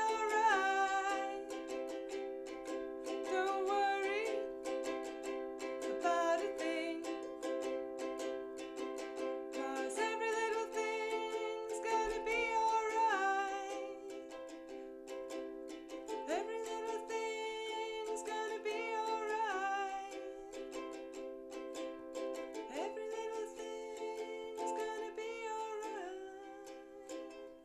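Ukulele strummed in a steady rhythm, with a singing voice in phrases over it. The playing dies away near the end.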